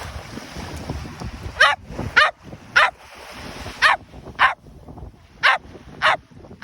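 Dog barking in short, high-pitched yips, about seven of them in quick groups of two and three. Wind and surf noise fill the first second and a half.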